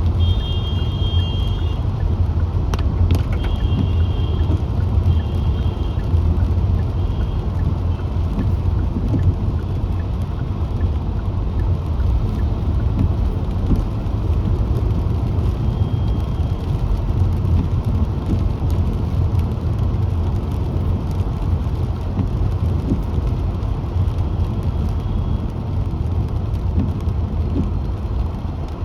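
Car driving on wet roads in rain: a steady low rumble of engine and tyres under a constant hiss of spray and rain. A few short high-pitched tones sound in the first several seconds and once more about halfway through.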